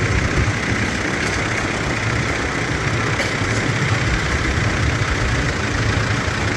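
Antique farm tractor engine running steadily at low speed, with a low, even throb.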